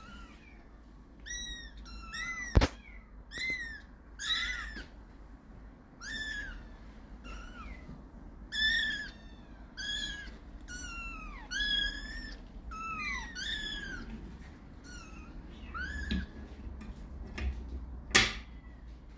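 Two-month-old Ragdoll kittens mewing over and over in short, high-pitched cries. A sharp knock comes a few seconds in and a louder one near the end.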